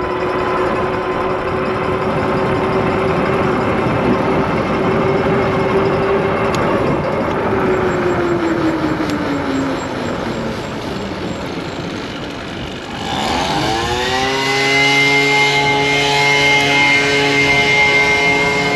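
Kreboc ES750 e-bike's electric motor whining at a steady pitch, with wind rushing over the microphone at speed. The whine falls in pitch as the bike slows, about two-thirds of the way through. Then a long, loud horn blast of several notes swoops up and holds.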